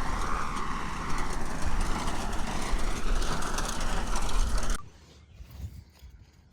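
Steady vehicle engine and cab rumble that cuts off suddenly about five seconds in, followed by a much quieter stretch with a few light knocks.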